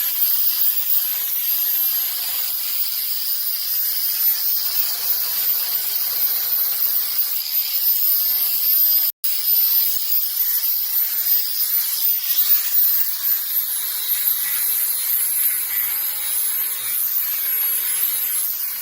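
High-speed power tool running: a steady hiss under a high whine that drifts slightly in pitch, broken off for an instant about nine seconds in.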